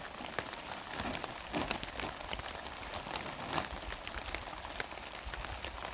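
Heavy rain falling steadily, with many individual drops striking close by as sharp scattered ticks.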